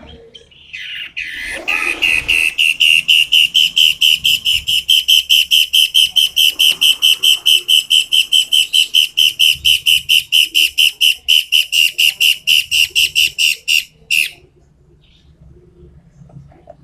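Toed matahari songbird singing a long, loud and sharp run of rapid high whistled notes, about five a second, that stops abruptly near the end.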